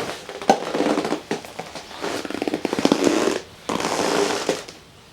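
Folding camp cot creaking and crackling under a person's weight, in several bursts of rapid clicks and squeaks as they shift on it.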